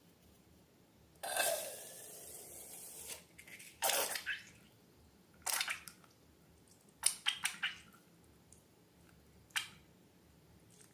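Slime being handled and squeezed: a longer wet, hissing squish about a second in, then a string of short squelches and clicks.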